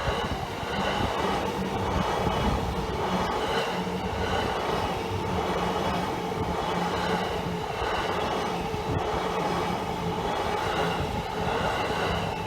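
Yamanote Line electric commuter train running past over the level crossing, its wheels clattering over the rail joints in an even rhythm a little faster than once a second.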